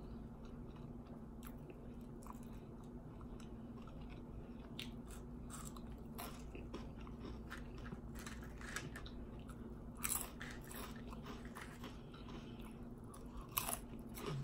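Close-miked chewing and crunching of potato chips, with irregular crackly crunches, louder about ten seconds in and again near the end.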